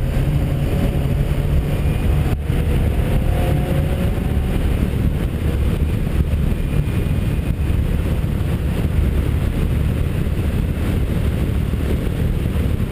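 Caterham Seven R300 Superlight's four-cylinder engine running steadily under way, heard from the open cockpit together with wind and road noise; the engine's pitch rises slightly over the first few seconds.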